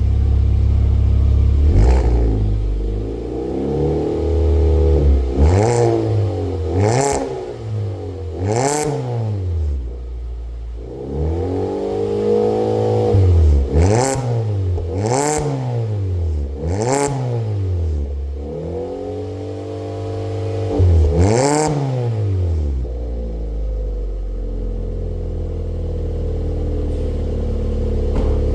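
2020 Kia Cerato S four-cylinder engine through a custom 2.25" cat-back exhaust with a Lukey Megaflow muffler, revved while stationary. It idles steadily, then gets about ten quick throttle blips, each rising and falling, with a few held a little longer. It settles back to a steady idle near the end.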